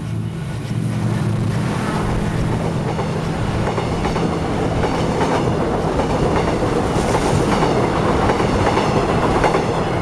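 Passenger train passing close by, its wheels clattering over the rails. The noise steps up about a second in and keeps building.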